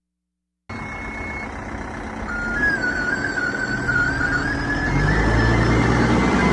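Komatsu backhoe loader's diesel engine running, cutting in suddenly under a second in and growing louder about five seconds in, with a high wavering whine over it.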